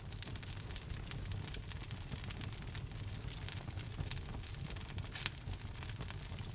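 Logs burning in a fireplace, crackling with frequent sharp pops over a low steady rumble of the flames; one pop about five seconds in is louder than the rest.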